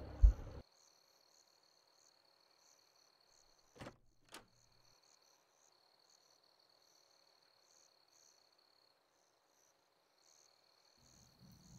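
Crickets chirping faintly and steadily over a thin, steady high tone. A short loud thud comes right at the start, and two sharp clicks come close together about four seconds in.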